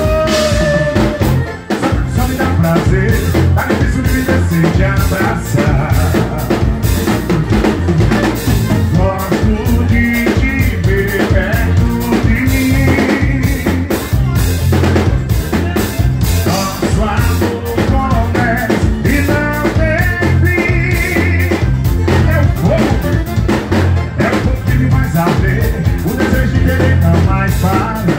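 Live forró band playing an instrumental passage with a steady, driving drum beat under a wavering melody.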